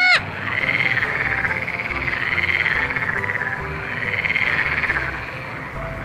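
A cat's meow cuts off right at the start, then an animal call made of very fast pulses comes in four long, swelling trills, each about a second long, over soft background music with low notes.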